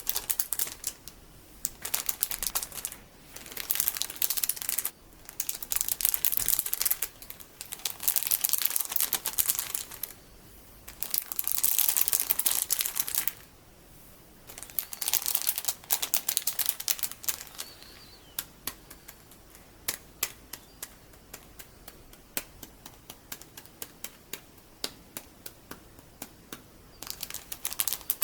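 Metal finger caps scratching in crackly bursts a second or two long, then tapping in light separate ticks for a while, with one more scratchy burst near the end.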